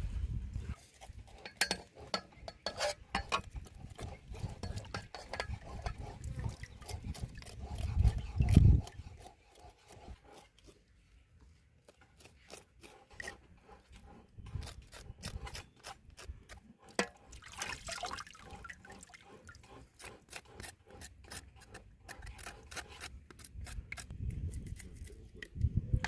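Hands and utensils working in water: irregular scraping and rubbing, small splashes and clinks of a pot or basin, with a few heavier knocks about 8 seconds in.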